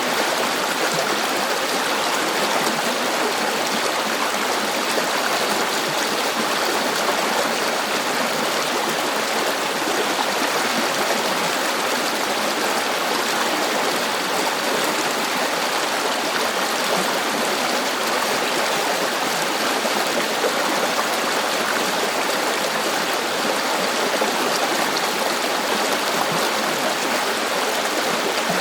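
A river running over rocks: steady rushing and babbling water, unchanging throughout.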